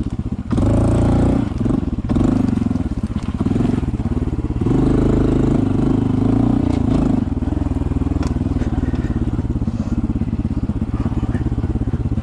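Honda CT125's single-cylinder engine running on the trail, the throttle opened and eased off in several spells before settling to a steadier run in the last few seconds.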